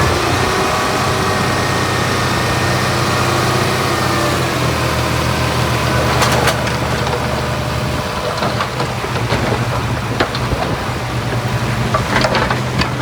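Heavy diesel earthmoving machine running steadily, with a few sharp clanks in the second half.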